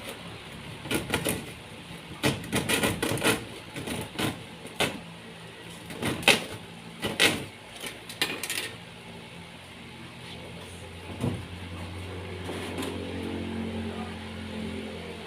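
Irregular knocks and clatters come in clusters for the first nine seconds or so. After that a steady low hum takes over.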